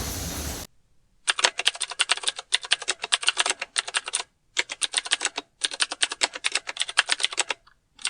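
Rapid keyboard typing clicks in several runs, stopping and starting with short silent pauses between them. A brief stretch of steady vehicle noise cuts off abruptly just before the typing begins.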